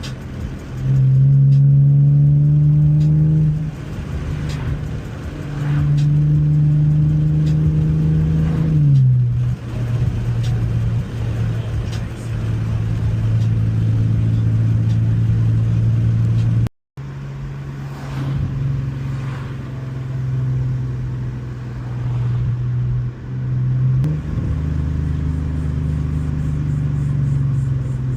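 2017 Ford Mustang's V6 engine through an MBRP exhaust with an H-pipe, driving under load: the exhaust note climbs sharply about a second in and holds, eases off, climbs again, then falls back to a steady cruising drone. The sound cuts out for an instant partway through.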